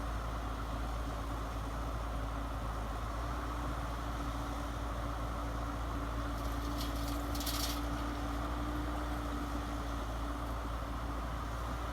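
Small motors and gearing of radio-controlled model trucks running steadily with a low hum and a thin whine. About two-thirds of the way in there is a brief scraping hiss.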